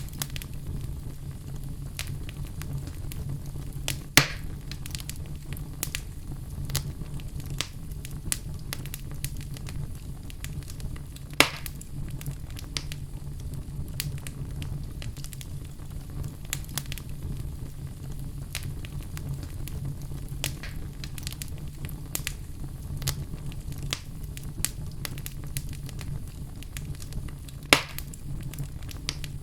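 Wood fire burning in a fireplace: a steady low rumble with constant irregular crackling, and three sharp louder pops, about four seconds in, a little before the middle, and near the end.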